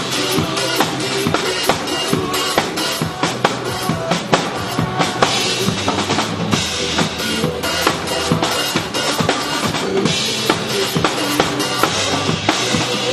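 Drum kit played live over a pop song's backing track: a steady, busy beat of kick drum, snare and cymbals.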